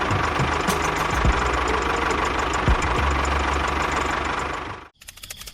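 Small engine running with a rough knocking rattle. It cuts off abruptly about five seconds in, leaving fainter rapid ticking.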